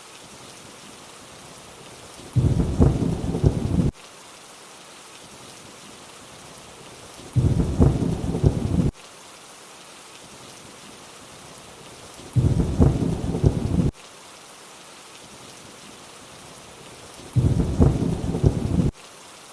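Steady rain hiss with a low rumble of thunder four times, about every five seconds. Each rumble lasts about a second and a half and cuts in and off abruptly, much louder than the rain.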